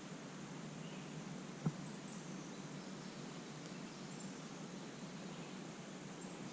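Faint, steady outdoor background noise, with a few short, faint high chirps scattered through it. A single sharp knock comes about a second and a half in.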